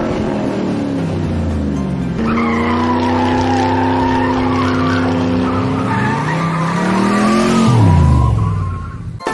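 Race car engine sound effect revving: the engine note falls, holds steady from about two seconds in, climbs again and then drops away near the end, with tyre squealing over most of it.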